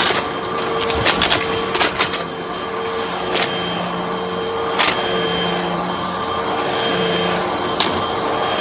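Hoover vacuum cleaner running steadily, its motor giving a constant hum, with scattered sharp clicks and crackles as small crunchy debris is sucked up.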